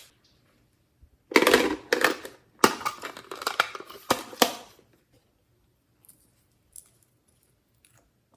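Slime being squished and worked, giving a run of wet crackling and popping for about three and a half seconds, then a few faint clicks.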